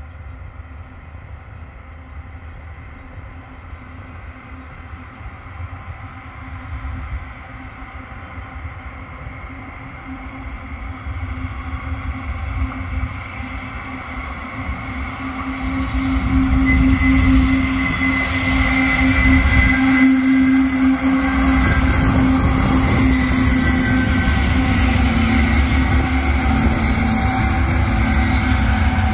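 Two GE AC4400CW diesel-electric locomotives with 16-cylinder engines approach and pass pulling a freight train: a low rumble and steady engine hum grow steadily louder, and about 16 seconds in the sound turns suddenly louder and harsher as the locomotives come close.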